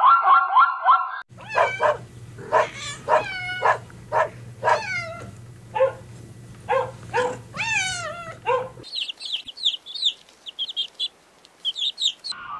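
Zebra calls break off about a second in. A dog follows with about a dozen short whines and yelps, many rising then falling in pitch, over a low steady hum. From about nine seconds in, quail chicks peep rapidly at a high pitch.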